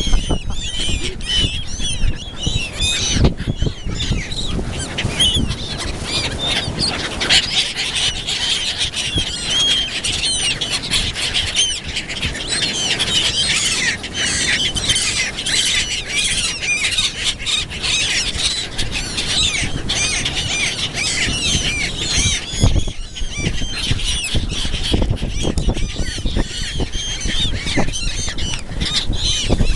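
A large flock of gulls squawking as they fight over thrown bread, many short calls overlapping without a break.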